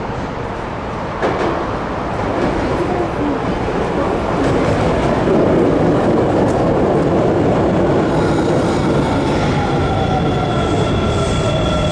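An Osaka Metro 20 series electric train pulling into a station. A sharp click about a second in, then the rumble of wheels on rail grows louder as it comes alongside. Near the end, as it slows, a whine falls in pitch and a high, steady squeal joins.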